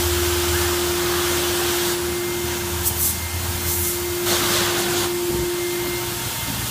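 Car wash high-pressure spray wand hissing in bursts as its trigger is pulled and let go: a long spray at the start, then a few short blasts and one more longer spray, over a steady machine hum.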